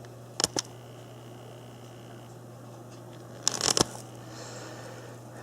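Handling noise from a handheld camera: two sharp clicks about half a second in and a short rattle of clicks and knocks a little after the middle, over a steady low hum.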